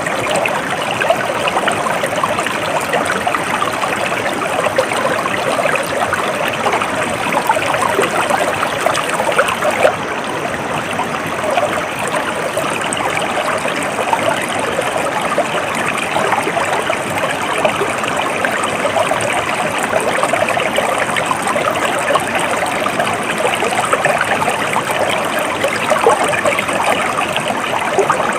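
Stream of water flowing steadily, with a continuous babbling, trickling rush.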